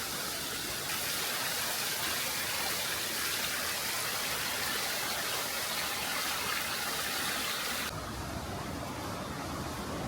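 Rushing water, a steady even hiss; about eight seconds in it changes abruptly to a duller, lower noise.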